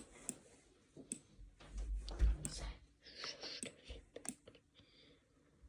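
Scattered clicks of a computer mouse and keyboard, irregular and fairly quiet, with a few soft handling noises between them.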